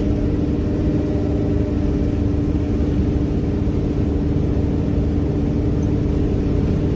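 A vehicle engine running steadily, a constant drone that neither rises nor falls.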